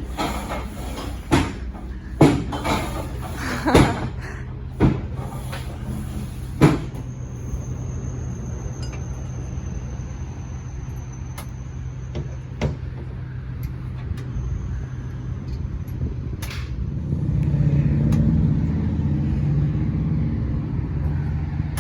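A vehicle engine running steadily with a low hum, growing louder near the end. A series of sharp knocks about a second apart sounds over it in the first several seconds.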